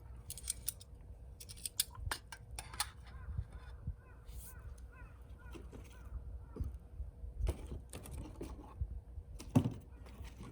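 Birds calling in the background, short chirps through the middle, with scattered sharp clicks and knocks; the loudest knock comes near the end.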